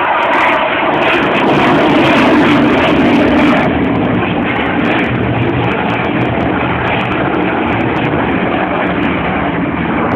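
Loud, steady jet roar from a Eurofighter Typhoon's twin EJ200 turbofans, swelling a second or two in and easing slightly after about four seconds.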